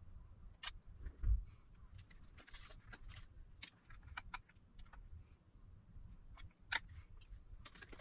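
Scattered small clicks and light metallic taps of tools and parts being handled on a workbench, with a soft thump about a second in and a sharper click near the end.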